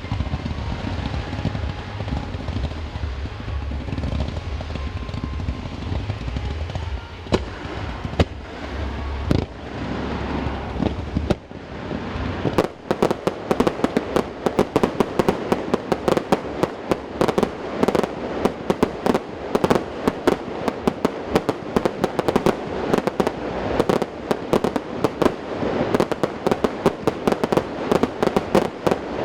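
Fireworks display heard in a mountain valley: a deep rumble with a few sharp bangs, then from about halfway a dense, rapid crackle of many small reports going off several times a second.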